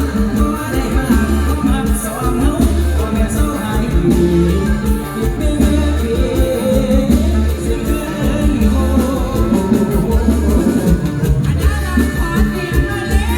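Live mor lam band music with singing over a heavy, steady bass beat.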